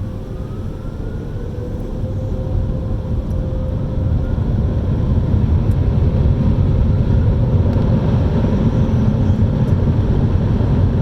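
Car wash machinery running: a steady low rumble with a motor whine, growing gradually louder over several seconds.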